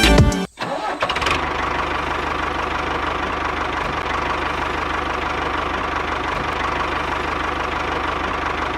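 Music cuts off just after the start. From just under a second in, a small motor on a homemade mini tractor model runs steadily, with an even fast pulsing and no change in speed.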